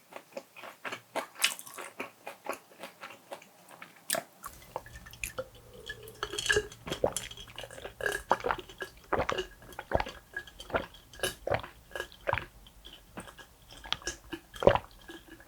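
Close-miked chewing and mouth sounds of someone eating, a dense run of short clicks, with light clinks of dishes or cutlery.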